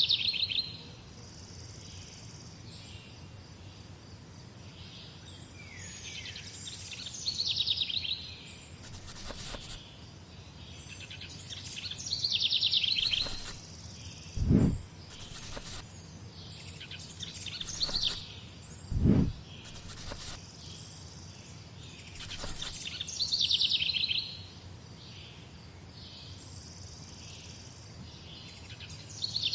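Morning birdsong: a songbird repeats a short, fast trilled phrase every five seconds or so, with fainter chirps between, over a steady low background hum. Two dull thumps come about halfway through.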